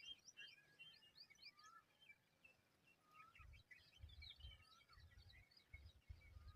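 Faint chorus of small birds chirping, many short quick calls overlapping, with intermittent low rumbles from about halfway through.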